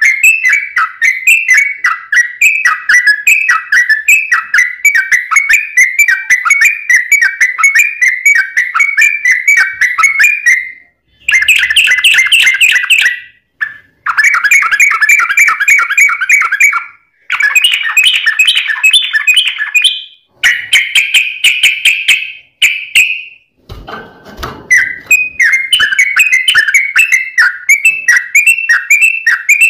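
Sooty-headed bulbul (trucuk) singing a fast, dense run of short, quick notes repeated a few times a second, with no pauses between phrases. The song breaks off abruptly several times and restarts with a different phrase.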